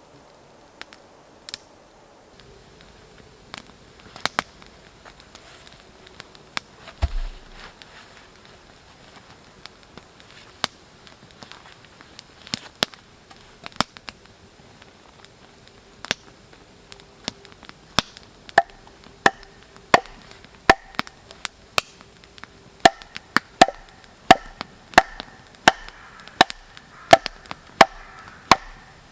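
Axe chopping wood: a few scattered knocks at first, then regular blows about once a second that grow louder in the second half.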